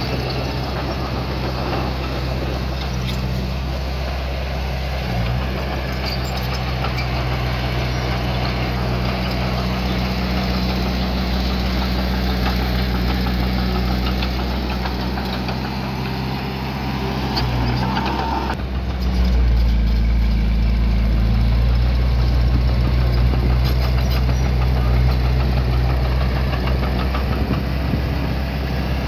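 Diesel engine of earthmoving equipment running steadily, its note shifting and getting louder about two-thirds of the way through.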